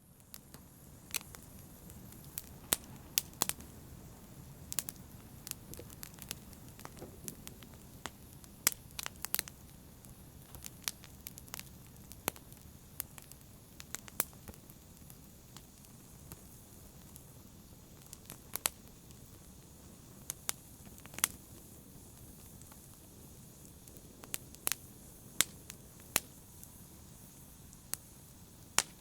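Campfire burning: a soft steady hiss under irregular sharp crackles and pops of burning wood, some of them much louder than the rest.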